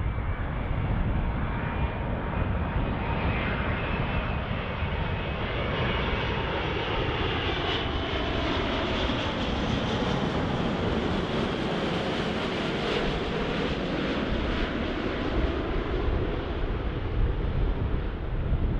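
Jet airliner's engines passing by: a steady rumble with an engine whine whose pitch glides downward as the aircraft goes past, loudest in its upper range about two-thirds of the way through.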